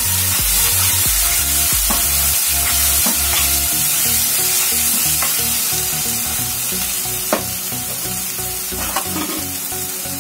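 Spiced tomato-onion masala sizzling in hot oil in a pan while it is stirred and roasted on a medium flame, with a few clicks of the spoon against the pan. Background music plays underneath.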